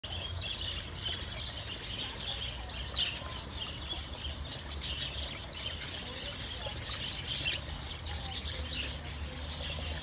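Small birds chirping, many short high chirps throughout, over a steady low rumble, with one sharp click about three seconds in.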